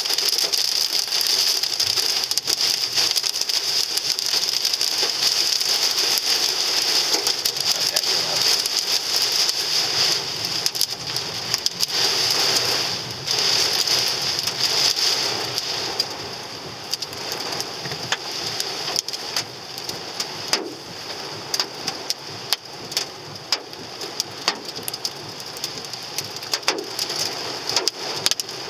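Hail and rain pelting a car's body and glass: a steady hiss full of countless sharp hits, easing about halfway through into a thinner patter of separate impacts. This is the storm that is denting the car.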